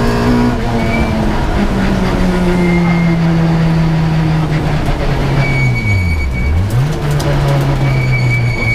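Rally car engine heard from inside the cabin, pulling hard with its note sagging slowly. About six seconds in the note drops sharply and climbs back up, as the driver lifts and gets back on the power. A high steady whistle runs alongside in the second half.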